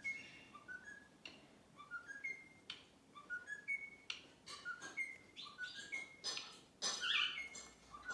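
Bird whistling and chirping: a short phrase of clear whistled notes climbing in steps, repeated over and over about every second and a half, with sharp chirps in between and a louder burst of calls near the end.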